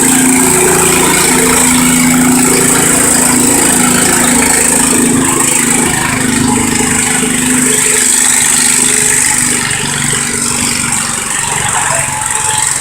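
Garden tractor engine running hard under load on a pull, a loud steady note that eases off a little about ten seconds in.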